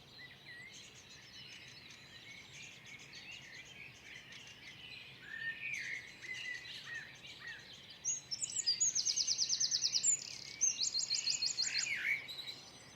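Woodland songbirds: soft scattered chirps and short whistles throughout, and about two-thirds of the way in a high, rapid trill of evenly repeated notes, given twice in quick succession, the loudest sound.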